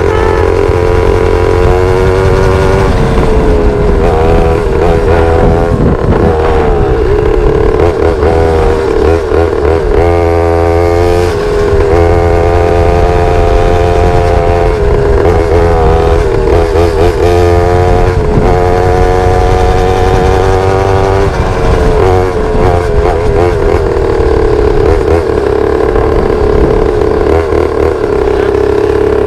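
Pit bike's small single-cylinder engine running under riding load, its pitch swinging up and down with the throttle through the middle stretch and holding steadier near the start and end.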